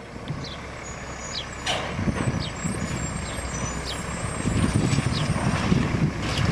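Automated side-load garbage truck's diesel engine running, louder in the second half, with a sharp air-brake hiss about two seconds in and another near the end. A faint high chirp repeats steadily, about every two-thirds of a second.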